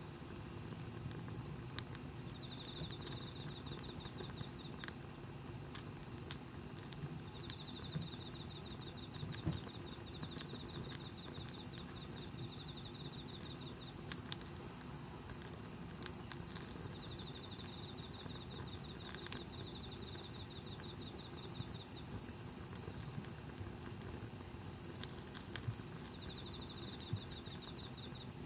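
Wood campfire crackling with scattered small pops, under chirping insects: one calls in high-pitched bouts of a second or two, repeating every few seconds, while another gives longer, lower buzzing trills of several seconds.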